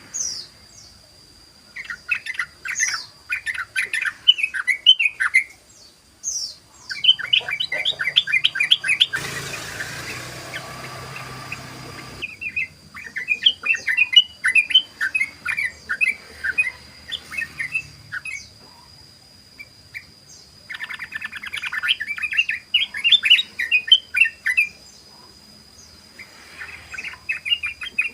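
Sooty-headed bulbul (trucukan) singing its rapid chattering 'ropel' song in repeated bouts of a few seconds each, with a few short high falling whistles between them. A burst of hiss about a third of the way in, and a faint steady high tone under it all.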